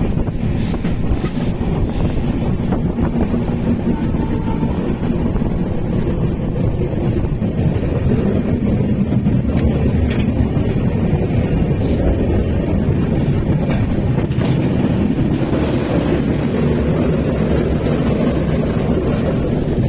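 Passenger train running along the track, heard from on board: a steady loud rumble with wheel clatter on the rails and a few scattered sharp clicks.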